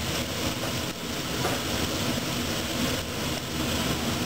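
Steady frying noise from lamb chops sizzling in a cast-iron skillet and kibbie bubbling in a deep fryer's hot oil, over a low, even rumble.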